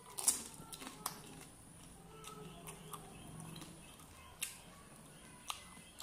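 A water-filled pani puri shell crunching as it is bitten just after the start, followed by a run of chewing and mouth clicks. Two more sharp mouth clicks come later.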